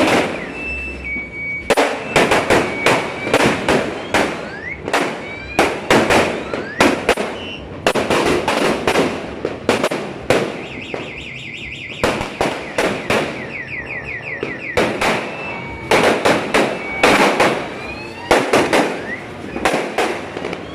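A Sawa 1000-round firecracker belt (Judas belt) going off in quick, irregular bangs at a few per second, with short lulls. A high steady tone and some rising whistles sound behind the bangs at times.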